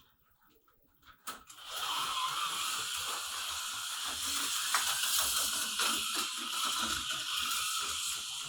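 HO-scale slot car running on the track, its small electric motor and gears making a steady whir with a fast rattle. It starts about a second and a half in, just after a click.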